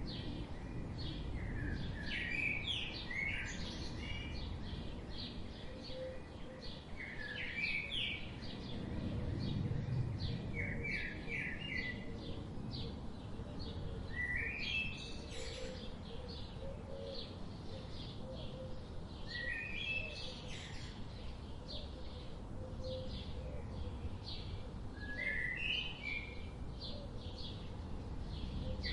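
Songbirds chirping and singing in short phrases every few seconds, with fainter chirps between them, over a low steady background noise.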